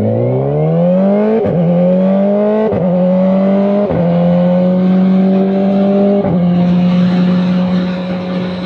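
Kawasaki Ninja ZX-4RR's inline-four engine accelerating through the gears. The pitch rises and drops back at four quick upshifts, about a second and a half apart, then the engine holds a steady high-revving cruise.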